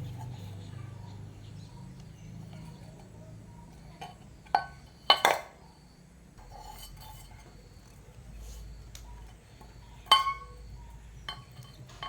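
A few sharp metallic clinks and clanks of hand tools and metal pump parts being handled, the loudest a little after five seconds in and again near ten seconds. A low hum fades away over the first few seconds.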